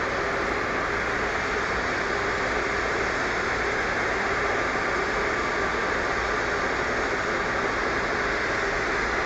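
Airbus A330-300's Pratt & Whitney turbofans running at taxi power: a steady, even rushing noise with faint steady tones through it.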